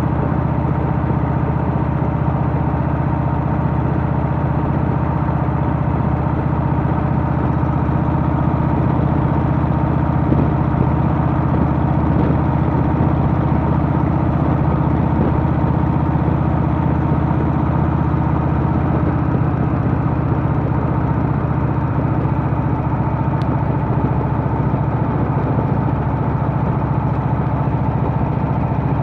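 Harley-Davidson Milwaukee-Eight V-twin engine of a Softail running at a steady, even pitch, with no revving or change in speed.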